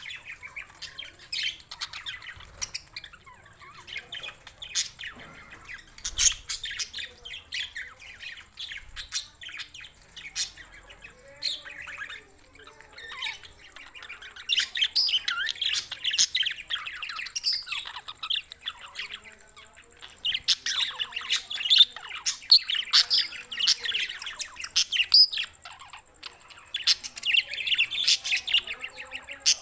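Budgerigars chattering and warbling in quick chirps, growing denser and louder about halfway through and again near the end.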